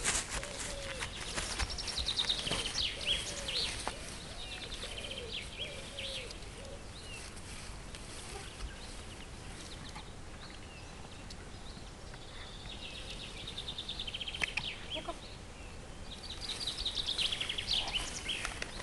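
Birdsong: bursts of rapid, high chirping trills from small birds, coming several times. In the first few seconds there is also a series of lower rising-and-falling calls and a few light knocks.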